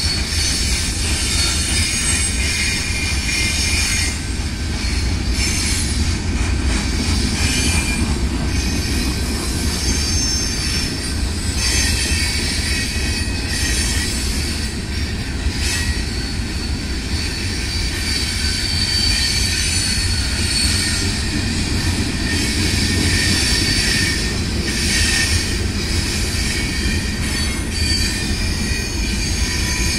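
Freight cars of a long mixed freight train (gondolas, covered hoppers and tank cars) rolling past: a steady rumble of steel wheels on the rails, with high-pitched wheel squeal coming and going and a few clunks.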